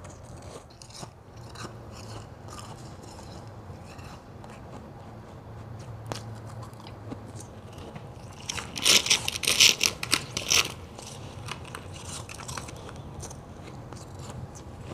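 Close-miked white ice being bitten and chewed: scattered small crackles, then a loud run of sharp crunching bites a little past halfway.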